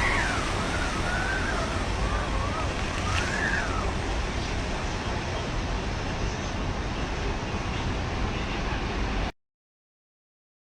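Hurricane-force wind and rain noise, with the wind buffeting the microphone. A wavering high tone rises and falls over the first few seconds. The sound cuts off suddenly about nine seconds in.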